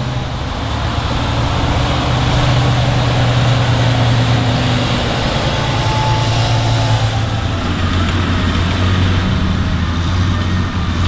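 Diesel engine of a large farm machine running steadily, its note dropping a little about seven seconds in.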